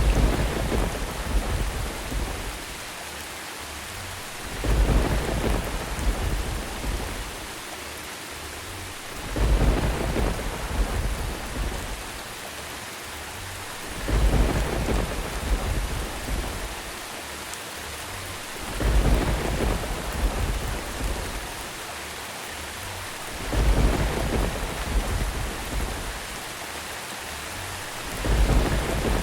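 Steady rain with rolling thunder rumbles that come at even intervals about every five seconds, seven in all, each starting suddenly and fading away over a couple of seconds.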